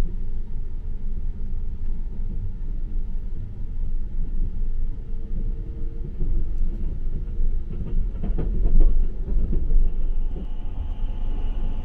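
Sunrise Express 285-series sleeper train running, heard from inside the carriage as a steady low rumble. A cluster of rattling wheel-on-rail clacks comes about eight seconds in, and a faint steady whine joins near the end.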